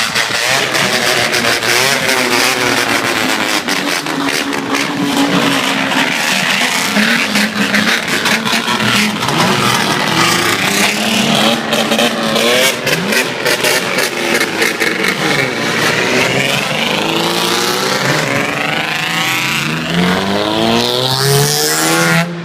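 Engine with a takeyari (bamboo-spear) exhaust being revved over and over, its pitch rising and falling with each blip of the throttle, then climbing in one long rev near the end.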